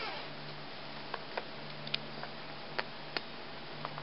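Faint, scattered clicks and taps, about half a dozen, as young pet rats move about in a water dish, over a low steady hum.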